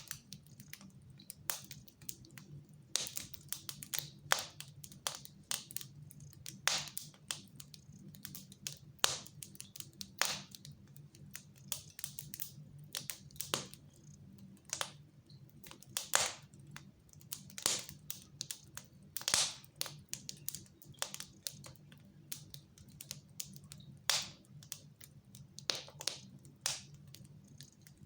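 Wood fire crackling in a fireplace, with irregular sharp snaps and pops, some louder than others, over a faint steady low hum.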